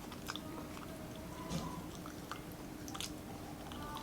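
A person chewing a mouthful of food close to the microphone, with a few scattered wet mouth clicks.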